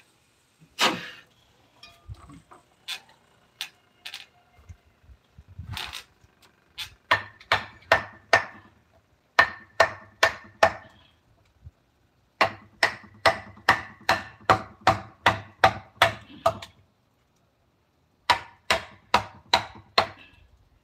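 Mallet striking a wood-carving chisel, in runs of quick knocks about four a second with short pauses between runs, each strike ringing briefly.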